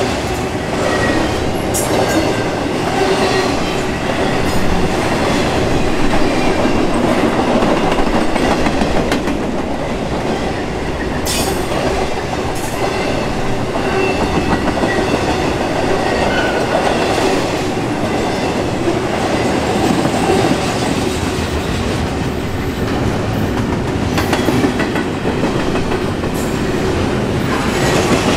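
Intermodal freight cars, double-stack container cars and trailers on flatcars, rolling past: a steady rumble and clatter of steel wheels on rail, with a sharp click about eleven seconds in.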